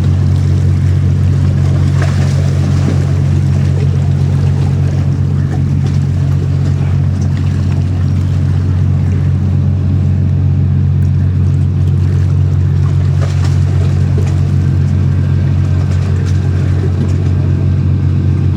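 Ferry's engines running with a steady, loud low drone that holds unchanged throughout.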